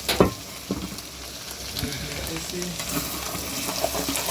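Food sizzling in a hot pan with a steady hiss, and short clicks and scrapes of stirring.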